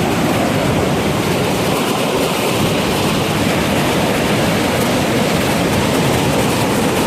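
Turbulent Mekong River waterfall rushing with a loud, steady noise of churning water.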